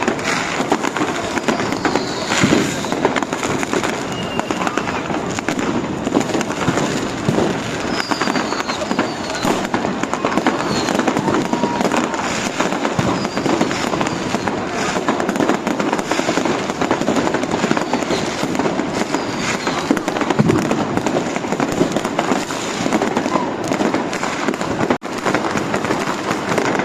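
Street fireworks and firecrackers going off without pause: dense crackling and bangs from all around, with a few short falling whistles of rockets.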